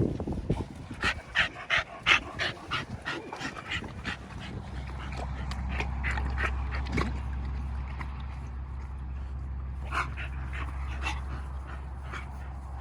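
Dogs whimpering and yipping, with a quick run of short sharp yips over the first few seconds and a few more later. A steady low hum comes in about four seconds in and stays underneath.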